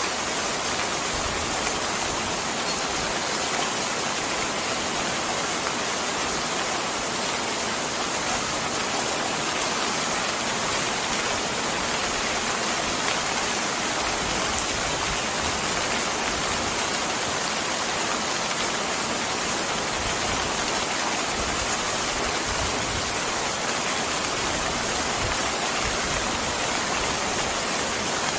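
Steady, dense rainfall: an even hiss of rain that keeps the same level throughout.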